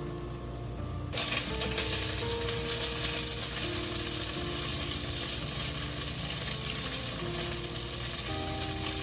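Food sizzling and crackling in a hot pan, starting suddenly about a second in and continuing steadily, over soft background music.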